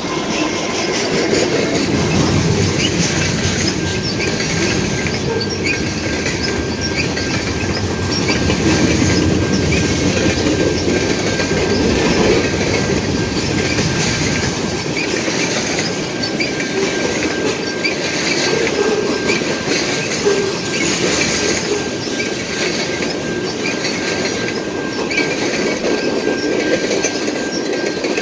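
CN freight train passing close by, a steady rumble and clatter of freight cars and wheels on the rails. A thin, steady high-pitched wheel squeal comes in about four seconds in and holds.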